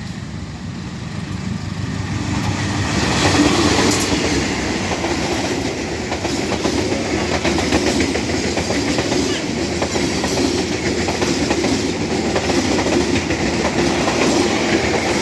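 A train running on its rails, the wheels clattering continuously. It grows louder over the first few seconds and then holds steady.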